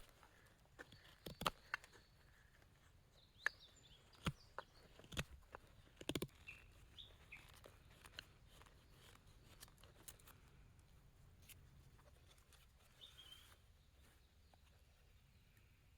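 Faint bird chirps, a few short calls, with scattered sharp clicks and knocks, most of them in the first half.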